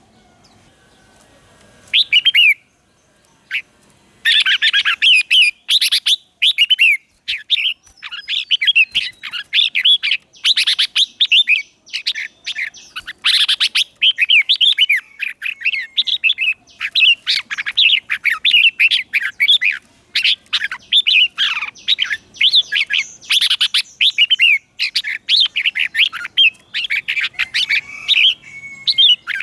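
Red-whiskered bulbul singing: short phrases of quick warbling whistled notes. A brief phrase comes about two seconds in, and the song runs nearly without a break from about four seconds in.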